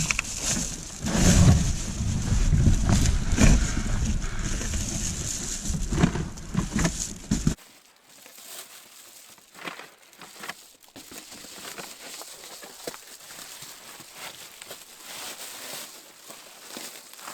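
Camping gear and insulation being handled: rustling, knocks and crinkling. A heavy low rumble sits under the first seven seconds and stops abruptly. After it only quieter scattered clicks and crinkles remain.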